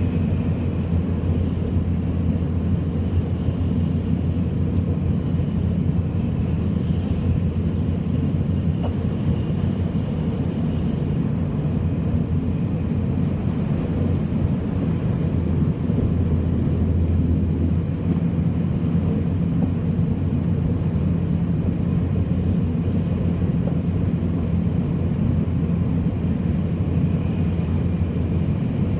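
N700 series Shinkansen running at speed, heard inside the passenger cabin: a steady low rumble with a faint high hum above it.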